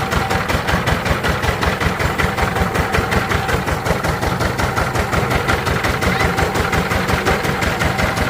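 Diesel engine running steadily at idle, with an even, rapid chugging beat.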